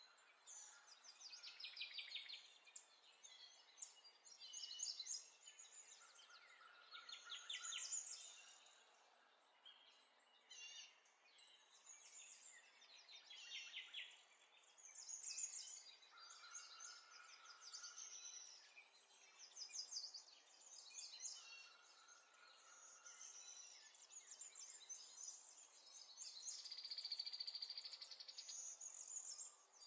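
Faint birdsong: birds chirping and trilling again and again, with a few short held whistles.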